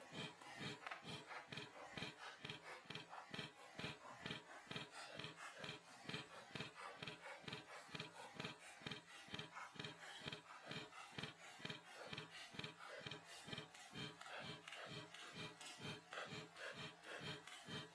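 Faint, even panting, about three to four breaths a second.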